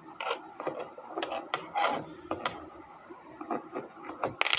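Small wrench and screws clicking and scraping against model aircraft kit parts as a nut is tightened: irregular light ticks, with a louder clatter near the end.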